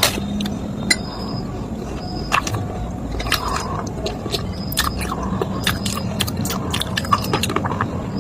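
Clay pieces being crunched and crushed, giving irregular sharp cracks and crunches over a steady low hum.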